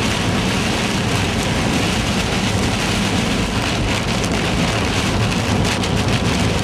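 Rain falling steadily on a moving car, its drops ticking on the body and glass, over a low rumble of road and engine noise.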